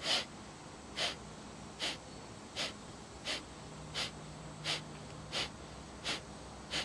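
A person's sharp, forced exhales through the nose in kapalabhati breathwork, each pumped out by the belly with a passive inhale between. There are about ten in a row at an even pace, roughly three every two seconds.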